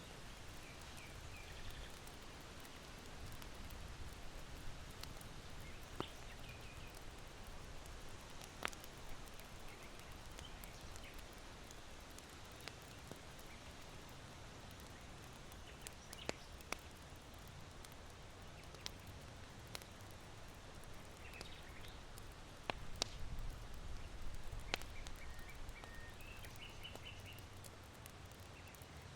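Charcoal in a sunken irori hearth crackling, with sharp pops at irregular intervals and a small cluster of them about two-thirds of the way in. Small birds chirp faintly in short bursts over a low rumble of wind.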